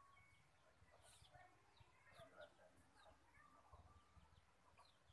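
Near silence, with a string of faint, short, high bird chirps repeating every half second or so over a faint murmur of distant voices.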